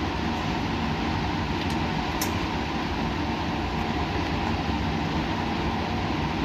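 Steady laboratory machine and air noise, an even hum with a few constant low tones, and a faint tick about two seconds in.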